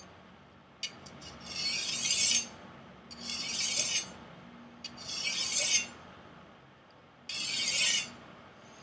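A Chinese chef knife's edge drawn across a whetstone in four light sharpening passes, each a grating hiss of about a second that grows louder toward its end. A few small clicks come just before the first pass.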